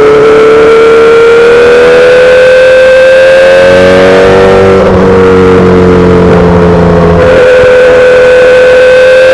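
2008 Yamaha R6 inline-four with a full SC-Project exhaust running under the rider. Its pitch climbs slowly for about four seconds, drops about five seconds in, then holds steady.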